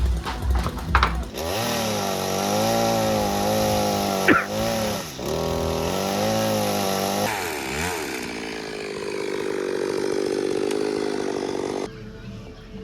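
Two-stroke chainsaw running under load, its engine pitch dipping and recovering as it cuts, with a sharp snap about four seconds in. The saw stops abruptly about a second before the end.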